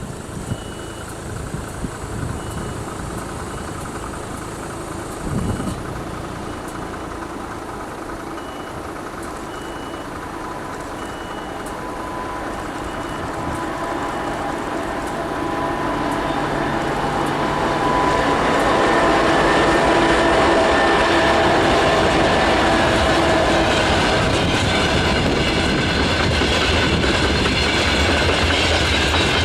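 A 2TE116 twin-section diesel locomotive approaching at the head of a freight train, its diesel engines and wheels on the rails growing louder through the first part, then loud and steady as it draws level and passes.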